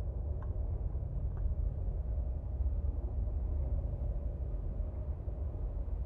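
Steady low outdoor rumble, with two faint short chirps or ticks about a second apart near the start.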